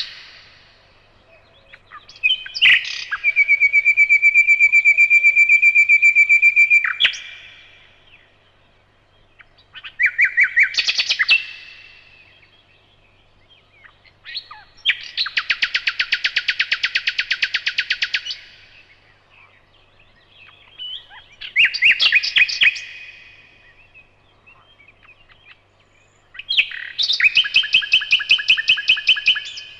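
Nightingale singing: five separate phrases with pauses of a few seconds between them, each a fast run of repeated notes, one of them a long even trill held on a single pitch for about four seconds; the last phrase is still going at the end.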